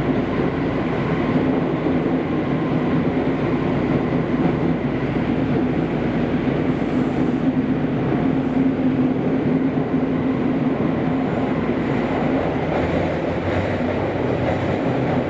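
Kobe City Subway 5000-series linear-motor train running at speed in the subway tunnel, heard inside the car: a steady rumble of running noise with a low, even hum.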